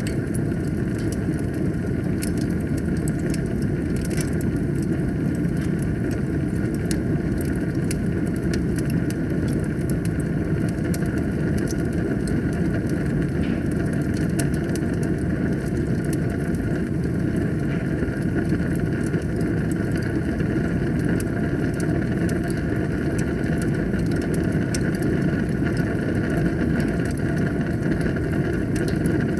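Wood fire burning in a fireplace: a steady low roar with frequent sharp crackles and pops.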